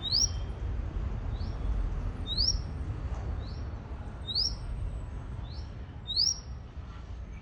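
A bird repeating short, high chirps that sweep upward, about one a second. Four loud notes alternate with three fainter ones, over a steady low rumble.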